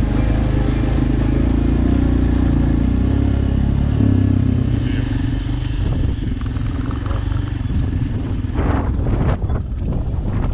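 Shineray XY250GY-6B enduro motorcycle engine running under way, its note shifting about four seconds in. Two short bursts of noise come near the end.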